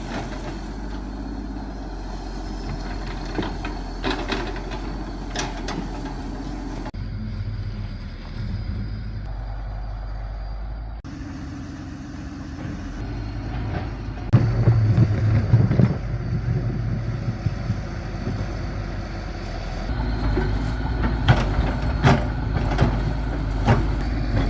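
Diesel engine of heavy machinery running steadily, with scattered knocks and clanks. The sound changes abruptly a few times where the footage is cut.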